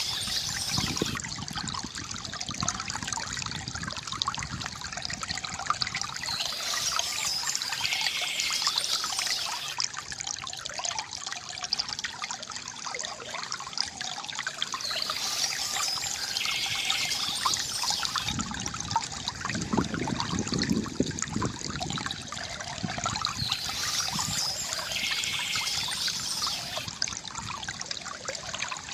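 Water from a bamboo fountain trickling and gurgling steadily, with a brighter, higher patch of sound recurring about every eight to nine seconds.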